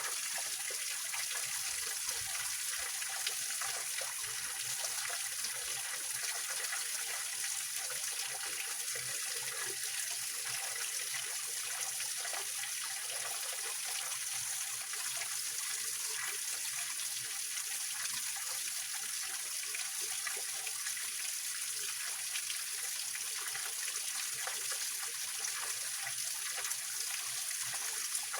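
Small waterfall and mountain stream splashing and trickling over rocks, a steady, even rush of water with a bright, hissy character.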